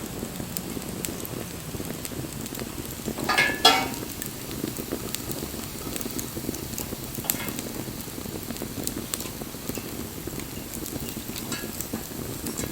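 Wood campfire burning, with a steady low rush of flame and scattered sharp crackles and pops. About three and a half seconds in there is one louder, brief sound with a slightly whistling edge.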